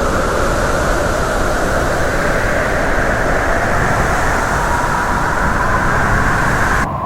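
Loud, steady rushing wind noise, like a staged tornado, that cuts off suddenly shortly before the end.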